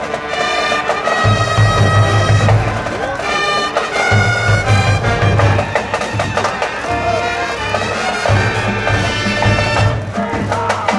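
A school brass band playing a baseball cheering tune, horns holding bright sustained notes, with a heavy low part coming in about a second in.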